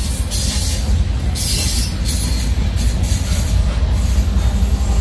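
Canadian Pacific train B243 rolling past: a continuous low rumble of the cars on the rails, with bursts of high hissing wheel squeal. A steady hum comes in near the end.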